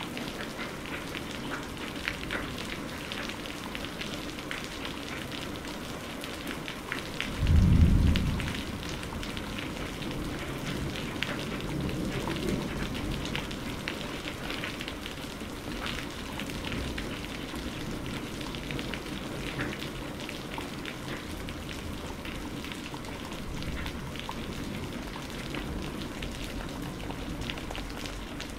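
Steady rain with a patter of individual drops. About seven and a half seconds in a short, loud, deep clap of thunder sounds, followed a few seconds later by a fainter low rumble.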